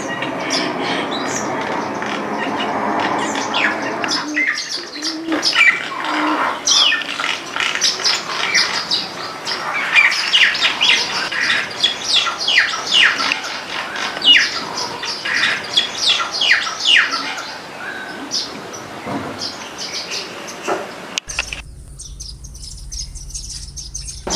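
Garden birds chirping in a busy chorus of many quick, short chirps that fall in pitch, thickest in the middle. A steady background noise lies under the first few seconds, and near the end the sound changes abruptly to a thin high insect-like hiss over a low hum.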